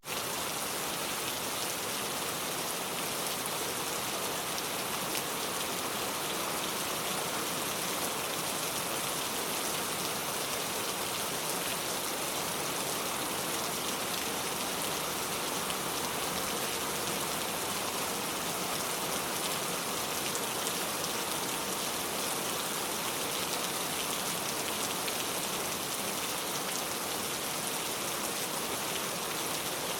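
Steady rain falling, an even dense hiss with many fine drops pattering on surfaces.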